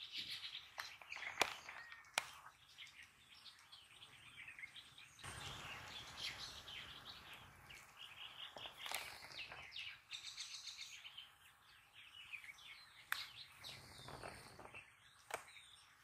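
Small birds chirping and trilling in a rapid, irregular chatter over a soft outdoor hiss, with a few sharp clicks, one early and one near the end.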